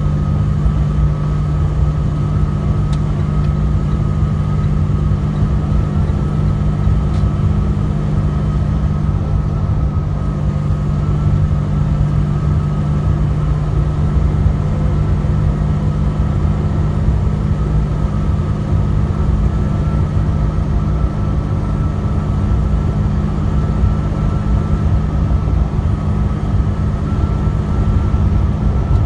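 Truck cab interior while driving: a steady low drone of engine and road noise with a constant hum, holding an even speed.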